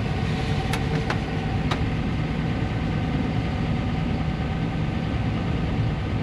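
Farm tractor's diesel engine running steadily, with three light clicks in the first two seconds.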